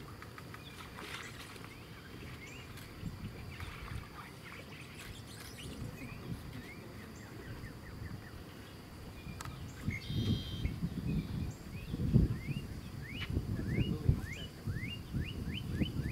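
Wild birds calling over a quiet marsh: scattered short chirps, then a run of quick rising notes near the end. From about ten seconds in, low rumbling bumps come and go, the loudest around twelve seconds.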